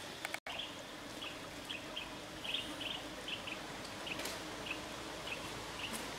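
A bird chirping again and again, short high chirps about two to three a second, over a steady hiss of outdoor background noise.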